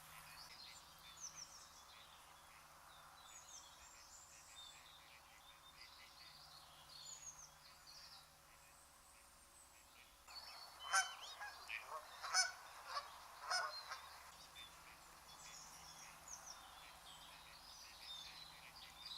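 Geese honking, a loud cluster of calls in the middle lasting a few seconds, over a background of small birds chirping.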